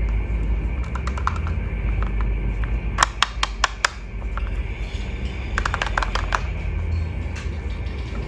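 Runs of quick, sharp clicks and taps from hands handling a boxed toy and its packaging, over a steady low hum. The loudest run comes about halfway through.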